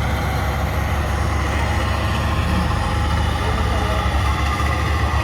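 Trial truck's diesel engine running steadily with a low, even throb.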